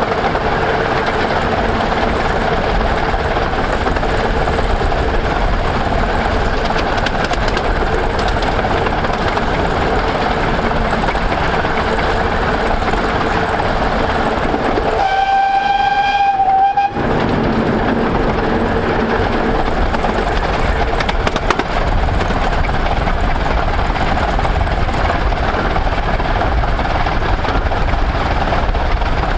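15-inch gauge steam locomotive No.5 Hercules hauling its train, a steady rumble of running on the rails, with one whistle blast of about two seconds roughly halfway through.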